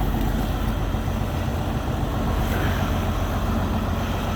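Semi-truck diesel engine running steadily: a deep, even hum under a steady haze of noise.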